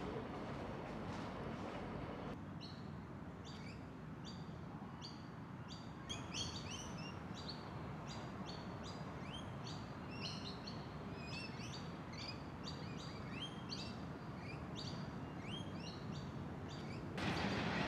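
Small birds chirping, short high chirps repeated a couple of times a second over a steady low rumble. The chirping starts about two seconds in and stops near the end, where a louder rumble takes over.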